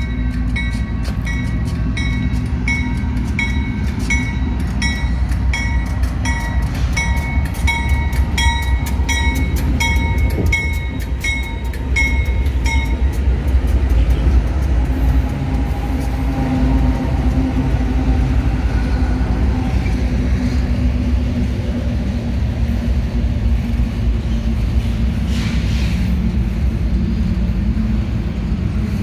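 Grade-crossing warning bell ringing about twice a second over the low rumble of an approaching Union Pacific freight train. The bell stops about 13 seconds in as the diesel locomotive passes, and the steady rumble of autorack cars rolling by follows.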